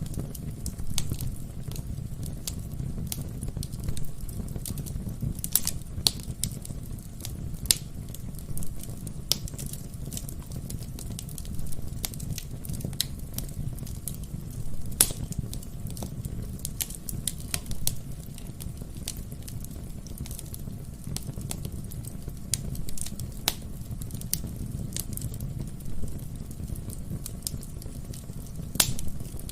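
Wood fire burning in a fireplace: a steady low rumble of the flames with frequent irregular crackles and sharp pops of the burning logs.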